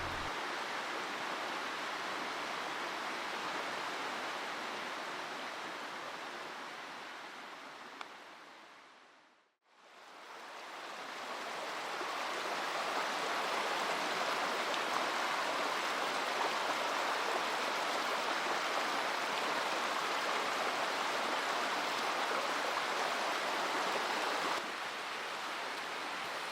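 Mountain stream rushing over rocks, a steady wash of water noise. It fades out to silence about nine seconds in, then fades back up and carries on.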